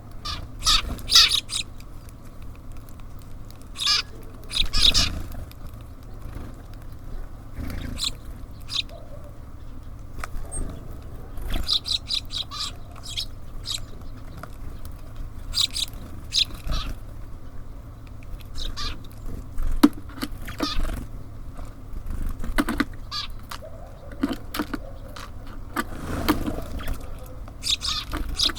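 Small birds at a feeder giving short chirps and calls in irregular bursts, some louder and closer than others, over a low steady hum.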